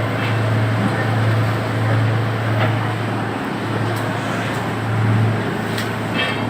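An engine running steadily with a low, slightly pulsing drone, under a constant rushing noise.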